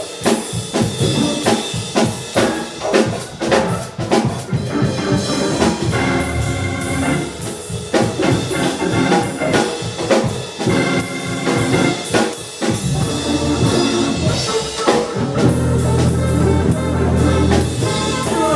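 Live jazz band playing an instrumental passage, the drum kit busy with snare and rimshot hits over a bass line and pitched instruments; low bass notes swell in the last few seconds.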